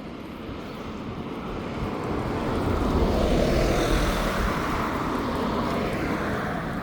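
A passing motor vehicle: a rumbling noise that swells to a peak about three to four seconds in and then slowly fades.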